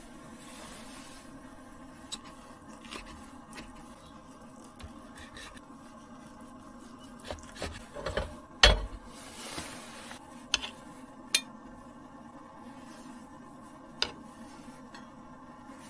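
Scattered light clinks and knocks of small objects being handled, with one louder knock a little under nine seconds in, over a steady faint low hum.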